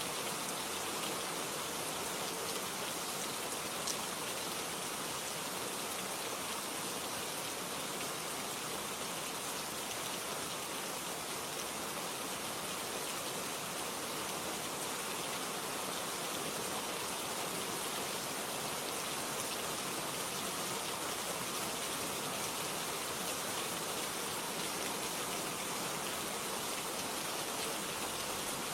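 Steady rain, an even hiss of falling rain that does not change, with a single faint click about four seconds in.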